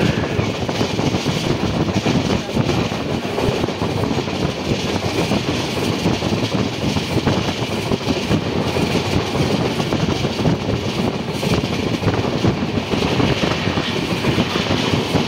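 Passenger coach of an express train running along the track, heard from on board: steady noise of wheels on the rails with some clickety-clack.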